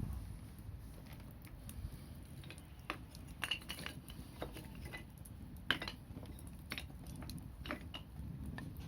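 Campfire crackling: scattered sharp pops and clicks at irregular intervals, over a steady low rumble.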